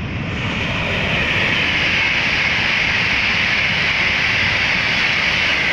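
Frecciarossa high-speed train running past on a viaduct: a loud, steady rushing noise that eases slightly near the end.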